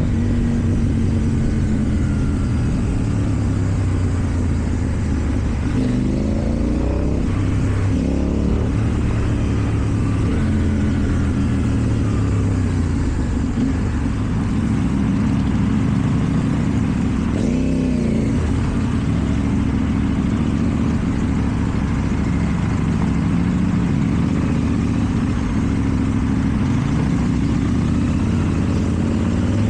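KTM 790 Duke's parallel-twin engine with an Akrapovic exhaust running at low revs in traffic, with a few short throttle blips that rise and fall in pitch.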